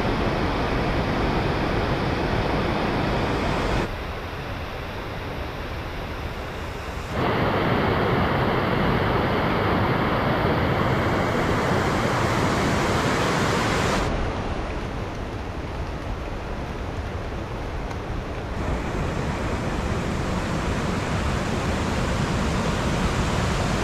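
Rushing mountain stream swollen by rain, a steady loud torrent of water over rocks. The rush drops and returns abruptly several times as one recording gives way to another.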